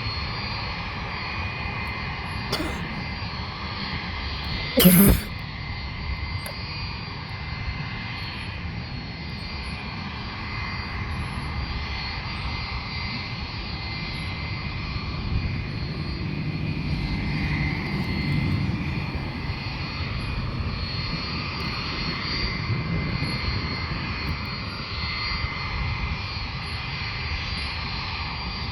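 Aircraft turbine engines running steadily with a continuous high whine over a rumble; the rumble swells for a few seconds past the middle. A short sharp knock stands out about five seconds in.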